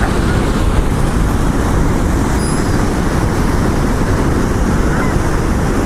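Steady wind rumble on the microphone over breaking surf, with a couple of faint seagull calls.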